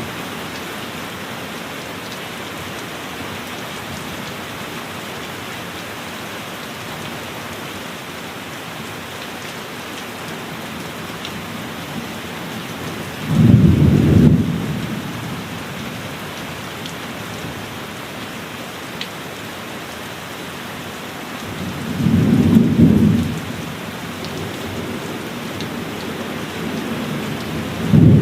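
Steady heavy rain with thunder rumbling twice, once about halfway through and again near the end. Each roll lasts a second or two and stands out over the rain.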